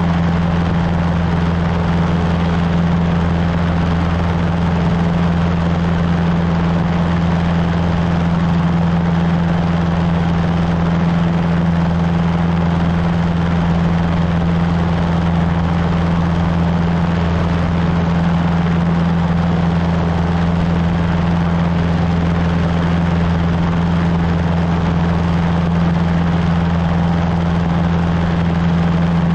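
Cessna 150's four-cylinder Continental O-200 engine and propeller, a steady drone that holds an even pitch throughout.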